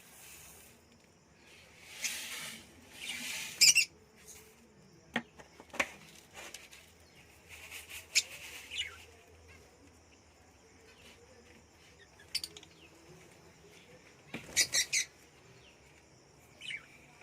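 Pet budgerigars and other small cage birds chirping now and then, with a loud cluster of chirps about two thirds of the way through. Two short rustling bursts come a few seconds in, followed by a few sharp clicks.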